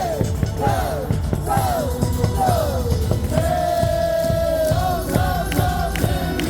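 Ballpark cheer song playing over loudspeakers with a steady beat, and the crowd singing along to the melody.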